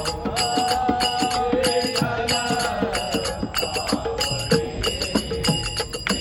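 Devotional bhajan: a held, wavering sung melody over a steady beat of struck strokes about three a second, with metallic ringing that fits small hand cymbals (taal).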